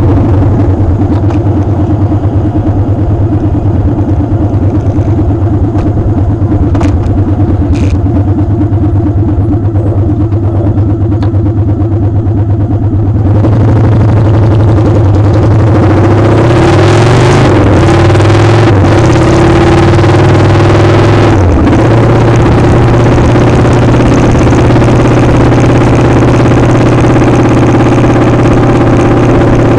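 Motorcycle engine running steadily under heavy wind rush on the microphone. Not quite halfway through the wind noise grows louder, and a little later the engine pitch wavers and dips briefly a couple of times before settling.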